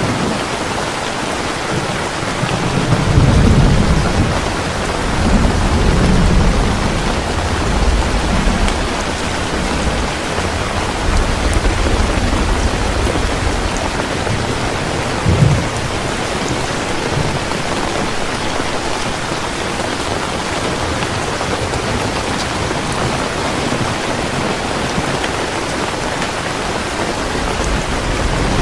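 Heavy rain falling steadily, with thunder rumbling from about three to nine seconds in and a short, sharper clap of thunder about halfway through.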